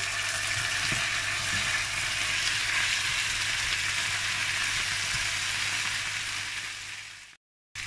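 Chunks of pork loin sizzling in olive oil with onion and garlic in a frying pan, with a few light knocks as a spatula stirs them. The sizzle fades and cuts out abruptly near the end.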